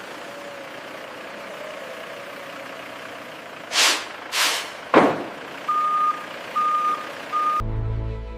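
An electronic vehicle reversing alarm gives three steady beeps over a background hiss. Just before the beeps come two short hissing bursts and a falling whoosh.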